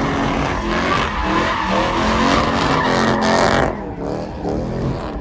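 A vehicle engine revving hard over loud tyre squeal, as in a burnout. The noise drops off sharply a little past halfway.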